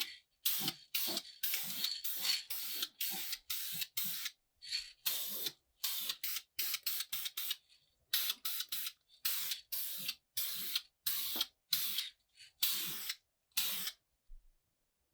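Paint being sprayed in short hissing bursts, about two a second, each under half a second, stopping shortly before the end.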